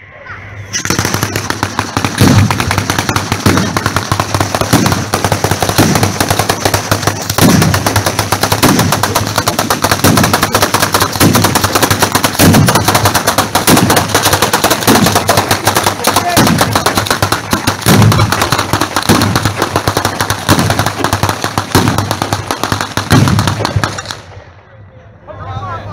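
Fireworks going off in a dense, rapid stream of cracks and bangs, with a deeper boom about every second and a quarter. It starts about a second in and stops abruptly a couple of seconds before the end.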